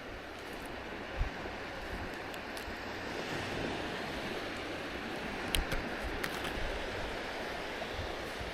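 Waves breaking and washing on a beach, a steady hiss of surf that swells slightly toward the middle, with wind buffeting the microphone. A few brief thumps, about a second in and twice more past the middle.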